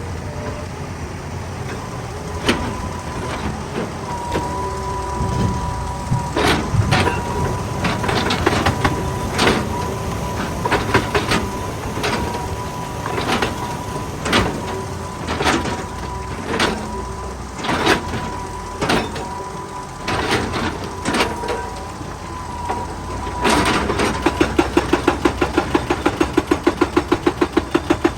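Heavy excavator's diesel engine running under hydraulic load, with irregular sharp clanks of rock and steel. About 24 seconds in, a hydraulic rock breaker starts hammering at a fast, even rate of roughly four to five blows a second.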